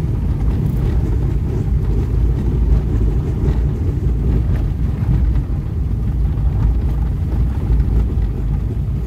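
Car driving, heard from inside the cabin: a steady low rumble of engine and tyres on a rough track.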